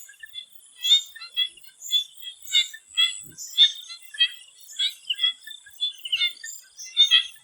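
Swamp frogs calling in a chorus: short, sharp calls come several times a second at irregular intervals, over a steady high-pitched drone.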